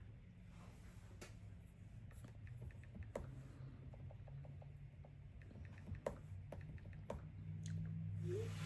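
Faint scattered clicks and light taps at irregular intervals, over a low steady hum that grows slightly louder near the end.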